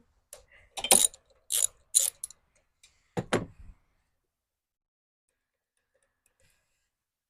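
Hand tools working on lawnmower parts: a handful of sharp metallic clicks and clanks over the first four seconds.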